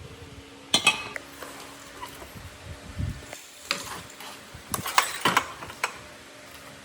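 Metal clinking and knocking in separate sharp strikes, a cluster of them about five seconds in: small metal parts or tools being handled.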